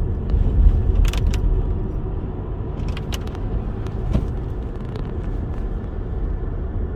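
Car driving: a steady low road-and-engine rumble, with a few short sharp clicks about a second in and again about three seconds in.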